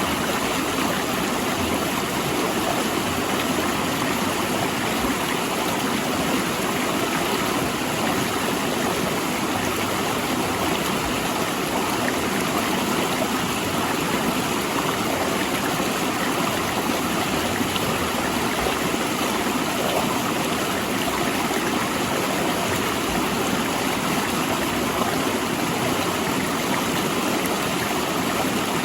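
Fast-flowing river rushing and splashing over large rocks, a steady, even rush of water.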